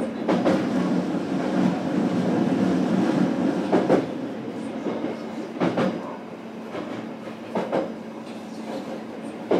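Running sound inside a JR Kyushu BEC819 DENCHA battery-electric train car: a steady rumble of wheels on rail, with paired clacks as the bogies pass over rail joints about every two seconds. The rumble is heavier for the first few seconds, then eases.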